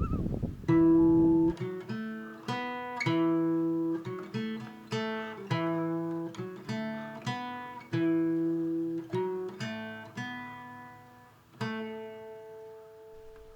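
Acoustic guitar music: single picked notes that ring and decay, a few each second, ending on a last note that is left to fade out.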